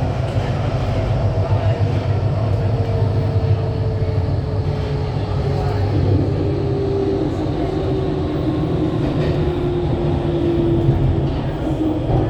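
Kawasaki–CRRC Sifang CT251 metro train running between stations, heard from inside the carriage. A steady low rumble carries a faint motor whine that drifts slowly lower in pitch.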